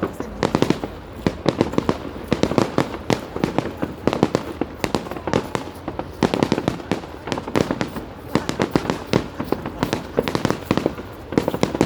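Fireworks going off in a continuous barrage of sharp bangs and crackles, several a second without a break.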